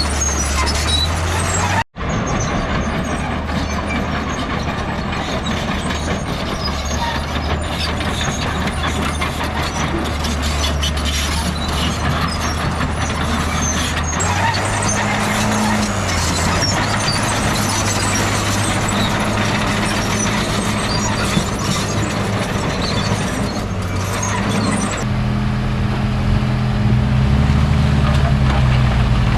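Heavy diesel earthmoving machinery running under load, its engine note shifting a few times, with a momentary break about two seconds in.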